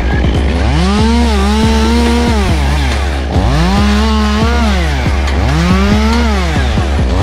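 Chainsaw engine revving up, holding high and dropping back, about four times in a row. A steady low drone runs underneath.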